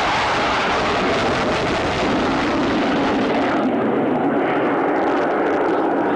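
Panavia Tornado's twin RB199 turbofans running loud as the jet flies past. The pitch of the engine noise drops about two seconds in, and the highest hiss fades soon after as it goes by.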